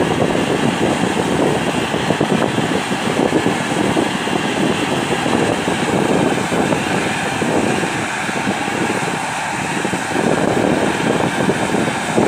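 A vehicle engine, likely a tractor's, running loud and steady with a rough, fluttering tone, easing slightly about eight seconds in before picking up again.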